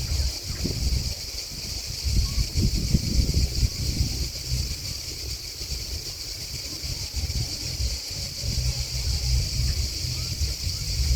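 Steady, continuous high-pitched chorus of singing grasshoppers and crickets. Gusts of wind buffet the microphone with a low rumble that comes and goes.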